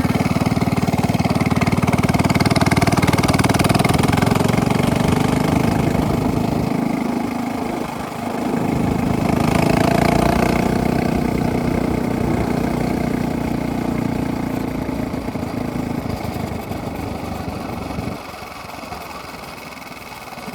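Minibike engine with a straight-pipe exhaust running loud while being ridden. It eases off about seven seconds in, revs back up, then slowly settles and drops back near the end.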